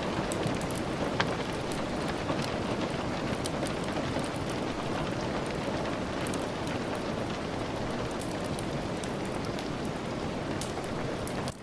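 Steady rain with scattered sharp crackles from a wood fire mixed in.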